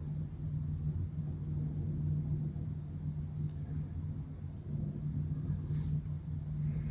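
Steady low background hum, with two faint light clicks in the second half.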